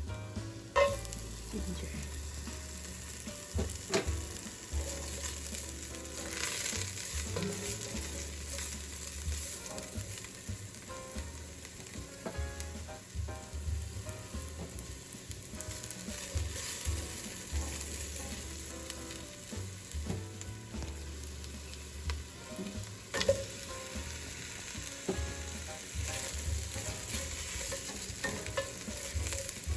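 Garlic frying and sizzling in a pan while being stirred, with a few sharp knocks of the utensil against the pan, the loudest about a second in, at about four seconds and about 23 seconds in.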